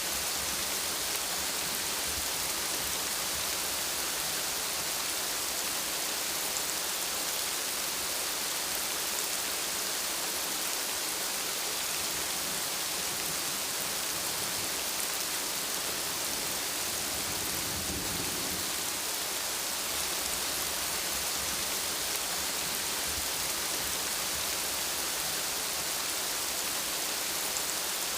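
Steady rainfall, an even hiss, with a brief low rumble of thunder about two-thirds of the way through.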